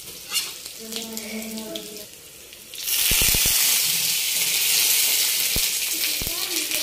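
Curry leaves dropped into hot oil with cumin seeds and green chillies in a kadai, spluttering with a sudden loud, steady hiss that starts about three seconds in. A few low knocks come with it.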